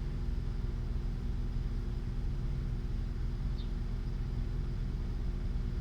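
Steady low rumble with a constant hum, as of a running vehicle.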